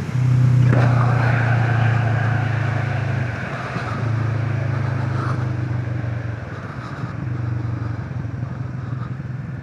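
Motorcycle engine pulling under throttle while riding, picking up sharply just after the start, then easing off briefly twice, as on a gear change or a lift of the throttle.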